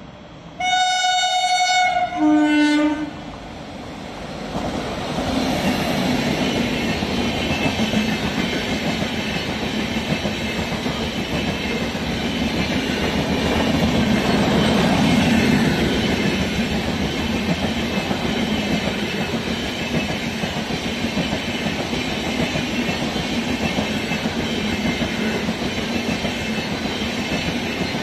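A train's locomotive horn blows a long high note and then a short lower note. The train then passes close by, its wheels rumbling and clattering over the rail joints, loudest about halfway through and still going at the end.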